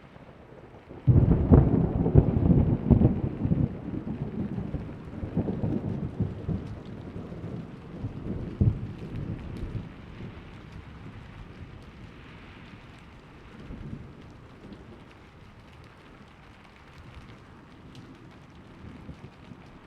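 Thunder cracks suddenly about a second in and rumbles on, loud at first and dying away over the next several seconds. Steady rain continues throughout.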